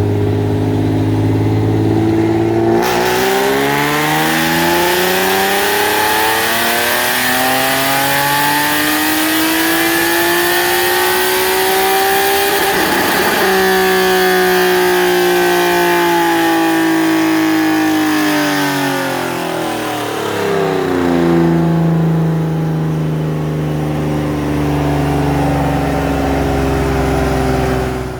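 2020 Nissan 370Z's 3.7-litre V6, breathing through long-tube headers and a catback with the mufflers cut off, on a dyno. It idles, then about three seconds in begins a full-throttle pull that rises steadily in pitch for about ten seconds. There is a brief harsh break at the top, then the engine winds down over several seconds and settles back to a steady idle.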